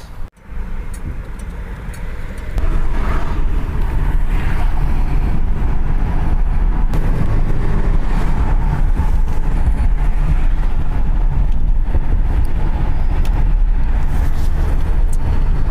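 A car's steady low rumble of engine and road noise. It gets louder about two and a half seconds in and then holds steady.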